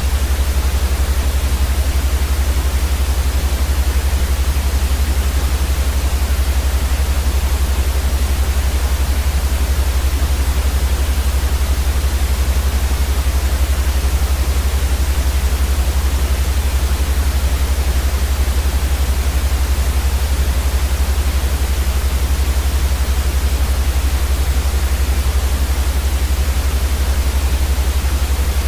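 Steady, unchanging white noise for sleep, an even hiss across the whole range over a much stronger deep rumble at the bottom.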